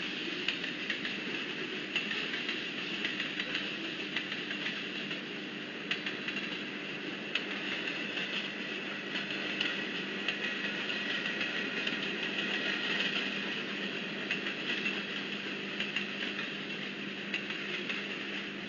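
Diesel freight train running at a grade crossing: a steady rush of rail noise with scattered light clicks over a low, even engine tone.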